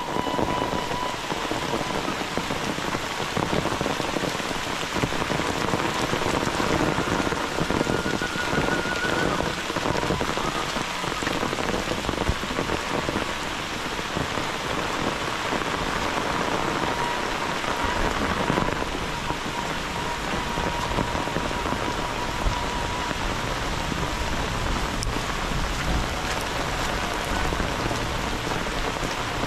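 Heavy tropical rain falling steadily on dense leaves and vegetation.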